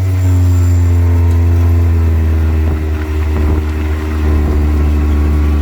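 Side-by-side UTV engine running at a steady speed while driving, a loud, even drone.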